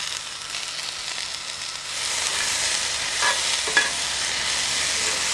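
Shredded runner beans sizzling in olive oil in a cast iron pan as they sauté, the sizzle growing louder about two seconds in.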